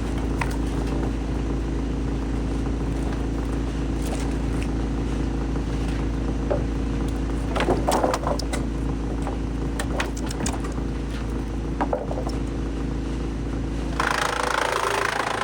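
Large heavy-duty wood shredder running with a steady engine hum, with scattered knocks and clatters in the middle. About a second before the end a louder, rough grinding noise starts.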